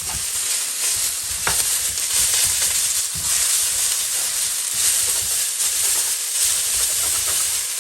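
Noodles and bean sprouts sizzling in a hot wok: a steady frying hiss, with one light knock about a second and a half in.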